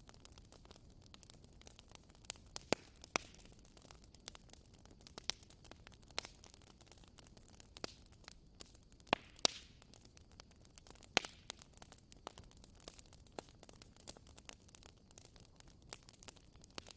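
Wood bonfire crackling: irregular sharp snaps and pops over a soft steady hiss, with a few louder pops scattered through.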